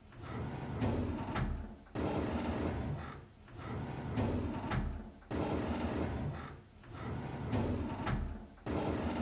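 A drawer sliding open, over and over. Each pull starts suddenly and runs on as a rolling, scraping slide, about every three seconds, three times.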